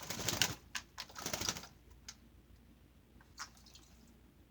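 White-bellied caique bathing in a shallow dish of water: two short bursts of rapid splashing in the first second and a half, then a single small splash or click a couple of seconds later.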